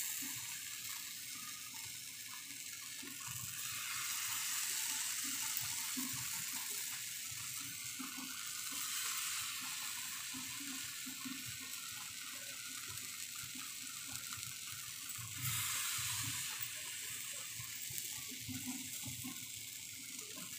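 Spice-paste-coated bitter gourd slices shallow-frying in oil in a pan: a steady sizzling hiss that gets a little louder a few seconds in, with faint soft knocks.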